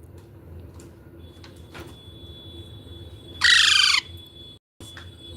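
Pet parrot giving one short, loud screech about three and a half seconds in, its pitch falling.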